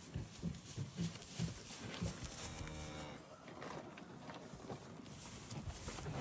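A cow mooing once, a short call of about a second that starts about two and a half seconds in, with scattered low thumps around it.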